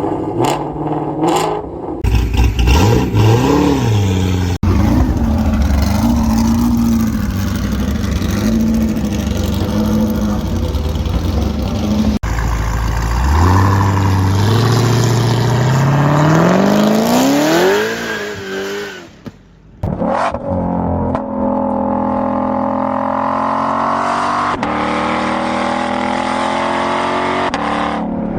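A run of V8 muscle-car engines, hard-cut one after another. First come quick throttle blips, then a rough idle with small revs. Next is one long rev that climbs steadily and falls away, and last an engine pulling hard as it speeds up.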